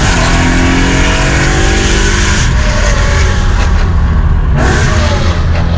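BMW E92 M3's 4.0-litre V8 through an aftermarket Armytrix exhaust, accelerating with the pitch rising and shifting as it pulls. Very loud, loud enough to drown out speech.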